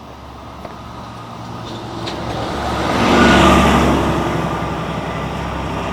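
A tram passing close by, with its motors humming and its wheels running on the rails. The sound swells to its loudest about three seconds in, then eases off.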